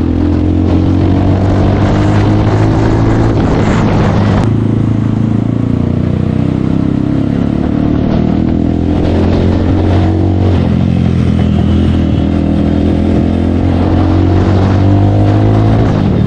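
Bajaj Pulsar 220F single-cylinder motorcycle engine running steadily through an aftermarket Akrapovic full-system exhaust, its note wavering slightly.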